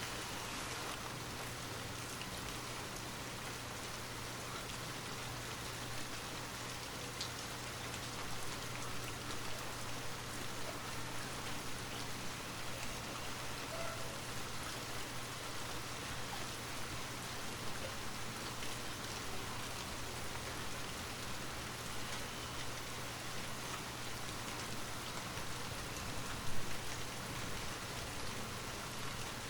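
Steady rain falling, with a dense even patter of drops hitting a surface. There is one sharper, louder tap near the end.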